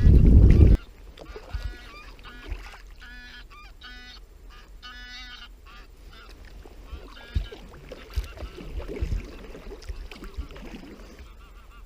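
Loud wind and water rush on the microphone that cuts off abruptly under a second in, then geese honking: a run of about five short calls from about three seconds in, with fainter calls later.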